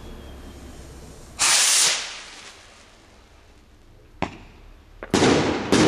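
Homemade black-powder firework rocket launching with a short rushing hiss, then sharp flash-powder salute bangs, one about four seconds in and more near the end followed by a hissing spread of noise.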